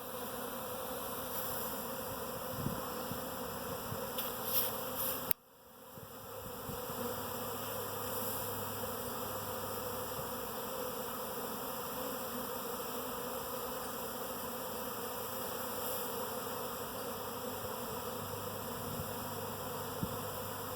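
A swarm of honeybees buzzing steadily as a dense mass. A little after five seconds in, the buzz drops away abruptly and builds back up over about a second.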